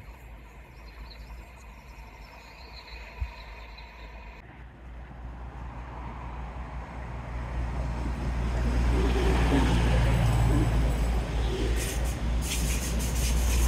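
Diesel train approaching, its engine and wheel rumble growing steadily louder from about halfway through and staying loud to the end. A single short knock about three seconds in.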